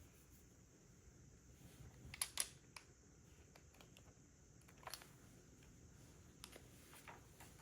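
Faint, sparse clicks and taps of plastic Lego pieces being handled and snapped together, with a sharper cluster of clicks about two seconds in and another near five seconds.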